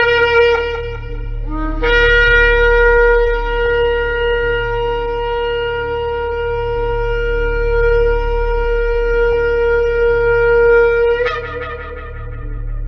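Shofar blown in long blasts. One note ends about a second in, and after a short break a single long, steady note is held for about nine seconds. Near the end it jumps up in pitch and fades, over a steady low hum.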